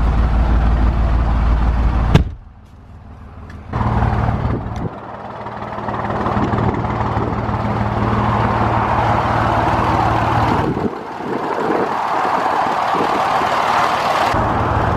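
Motor vehicle noise by a road: a low engine hum that stops abruptly with a click about two seconds in, then a loud rushing of passing traffic, with a low engine hum returning near the end.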